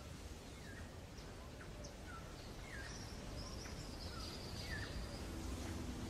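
Small birds chirping, short calls about once a second, with a longer, higher call near the middle, over a steady low hum of city background noise.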